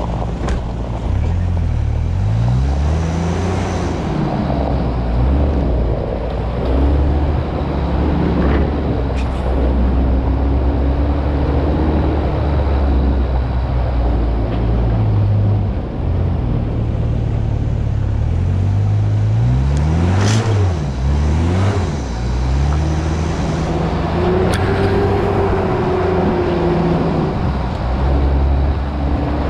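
Mitsubishi Pajero's engine revving up and down repeatedly as it drives through deep mud ruts, with a few sharp knocks along the way.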